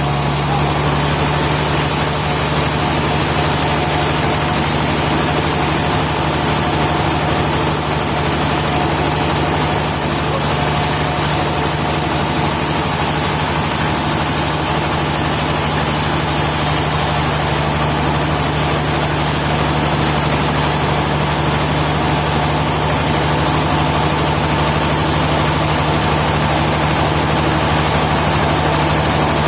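Sawmill engine running steadily at an even speed, a constant low hum with no change in load.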